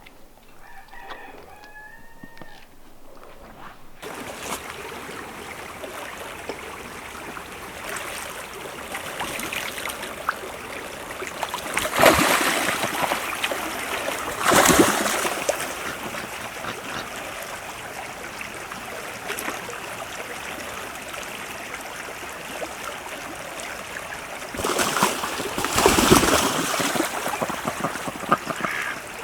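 A rooster crowing: two short calls in the middle and a longer crow near the end, over a steady rushing noise.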